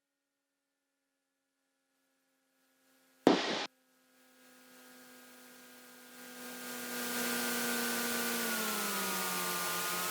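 Cessna 337 Skymaster's engine drone heard through the headset intercom, fading in with hiss after a sharp click about three seconds in; the drone holds steady, then drops in pitch near the end.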